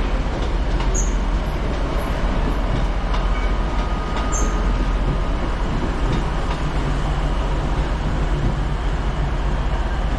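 Passenger trains running through a station: a steady rumble, with brief high squeaks about a second in and again about four seconds in.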